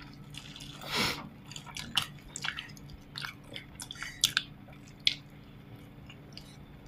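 A person chewing and biting into stewed pork ribs close to the microphone, with irregular small clicks and a brief louder swell of noise about a second in.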